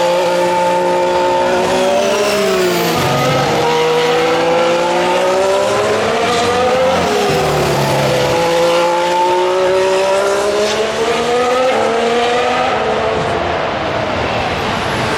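Formula 1 cars' 1.6-litre turbocharged V6 hybrid engines running through a chicane, several in succession with their notes overlapping. Each engine note falls in pitch under braking and downshifts, then rises again as the car accelerates out. The lowest points come about two to three seconds in and again around seven seconds.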